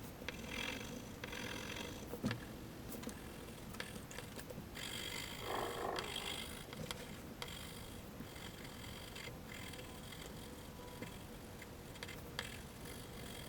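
Graphite pencil shading on paper: soft, faint scratchy strokes in short bouts, with a few light clicks.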